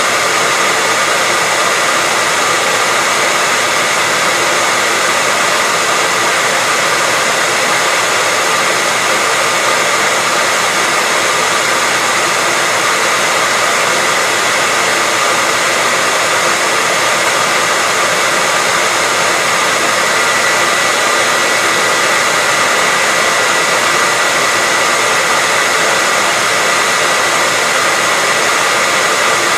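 Hair dryer running steadily: a constant rush of air with a steady high whine from the motor and fan.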